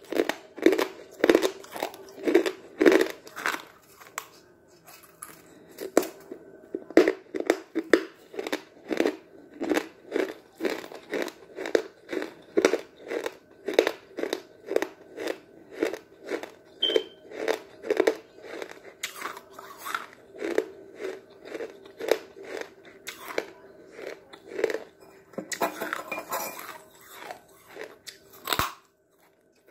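Chalk being chewed close to the microphone: steady crunching chews about twice a second, with a short rougher burst of crunching and a sharp click near the end.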